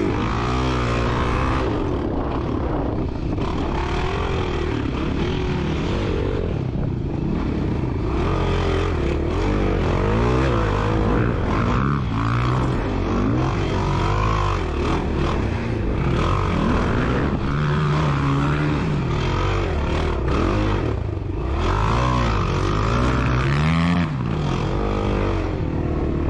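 Enduro dirt bike engine ridden off-road, revving up and falling back over and over as the throttle opens and closes every second or two.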